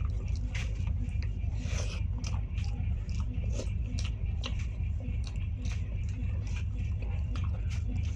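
Close-miked eating: a mouth chewing food, with irregular short wet clicks and smacks. A steady low hum runs underneath.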